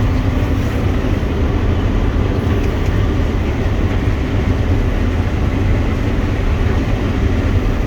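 Claas combine harvester running steadily while harvesting, heard from inside the cab: a constant low engine drone under the even noise of the threshing machinery.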